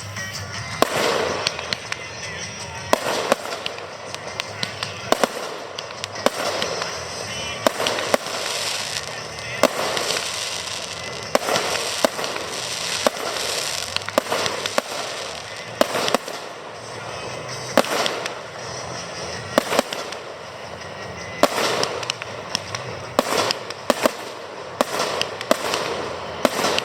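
Aerial fireworks display: shells bursting with sharp bangs about once a second, sometimes several in quick succession, over a continuous crackle and rumble.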